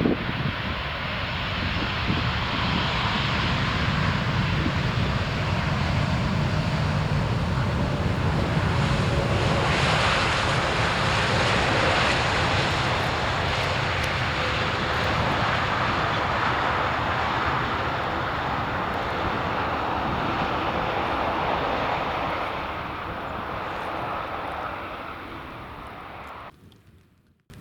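Jet noise from a KLM Boeing 787-10 landing. It builds to its loudest about ten seconds in, eases slowly, then drops out suddenly near the end.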